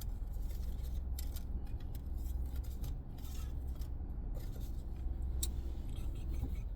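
Light rustling, scraping and clicking of paper being handled, over a steady low hum, with a sharp tick about five and a half seconds in.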